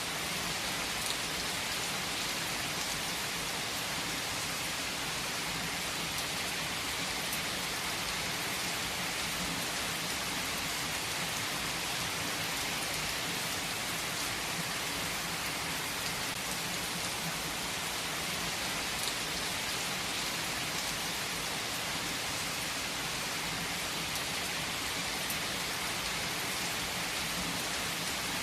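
Heavy rain falling steadily on surfaces: an even, unbroken hiss with scattered faint drop ticks.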